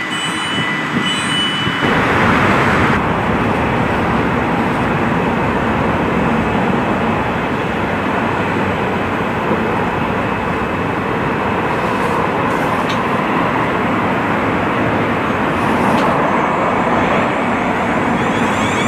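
A train running past the platform: a loud, steady rumble and rush of the train on the rails that sets in about two seconds in and holds.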